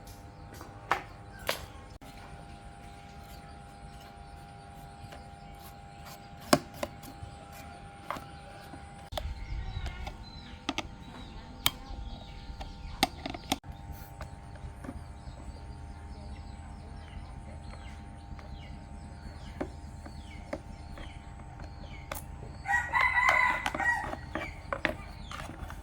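A rooster crowing once near the end, a loud call of about a second and a half. Scattered sharp clicks and knocks are heard before it.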